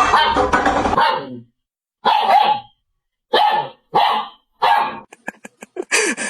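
Dogs barking for food: a dense jumble of barking at first, then four separate barks about a second apart. Rapid clicking and a rasping noise follow near the end.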